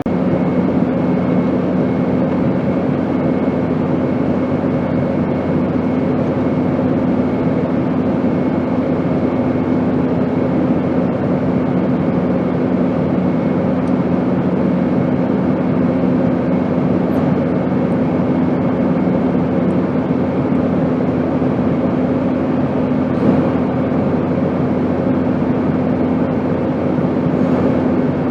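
Airplane in flight: a steady, dense rushing drone with several constant hums running through it. One of the lower hums fades out about two-thirds of the way through.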